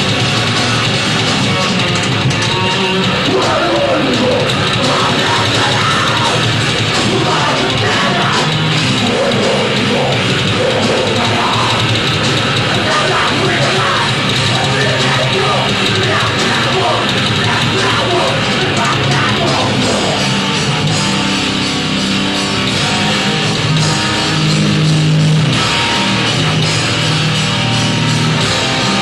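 Heavy metal band playing live, with distorted electric guitars, drum kit and a singing voice.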